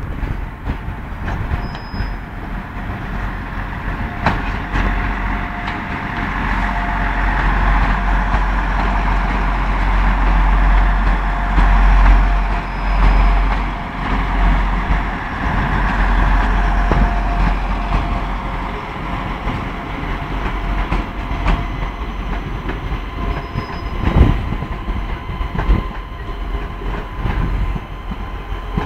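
Passenger train moving at a station platform. A low rumble builds about five seconds in and eases off after about eighteen seconds, with scattered clicks of wheels over rail joints; one click near the end is louder.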